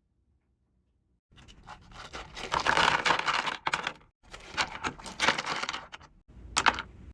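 Packaging being handled and torn open, crinkling and scratching in three bursts that begin about a second in.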